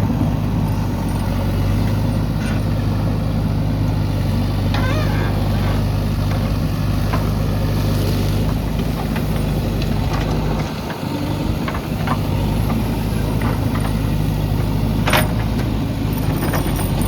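JCB backhoe loader's diesel engine running steadily, with a few sharp clanks, the loudest near the end. The engine note drops away briefly about eleven seconds in.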